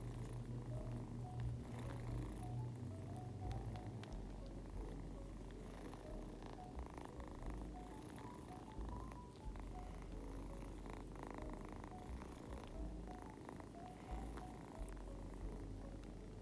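Domestic cat purring close to the microphone: a steady low rumble that breaks off briefly with each breath, every second or two.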